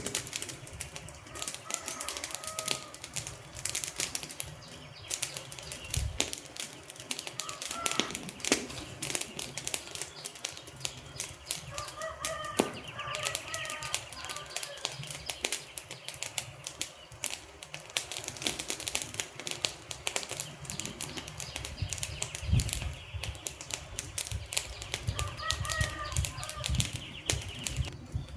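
Wood fire crackling: a dense, irregular run of sharp pops and snaps over a soft hiss, with a few short chirping sounds here and there.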